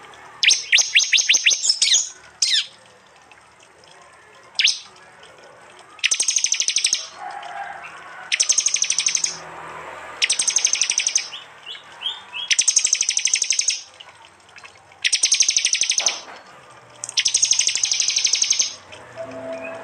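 Prinia (prenjak) song: a quick run of sharp downward-sweeping chirps, then loud rapid buzzing trills about a second long, repeated every two seconds or so, the prenjak's 'tembakan' bursts.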